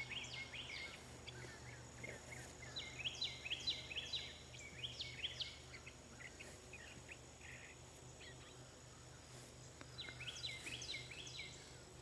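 A songbird singing in phrases of quick, falling chirps: one at the start, a longer run about three to five seconds in, and another near the end.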